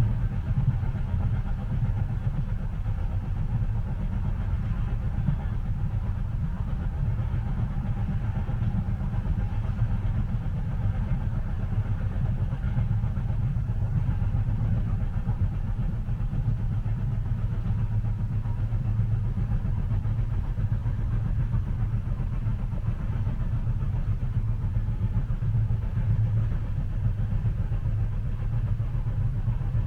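Steady low rumble of a train in motion, heard from inside the passenger cabin.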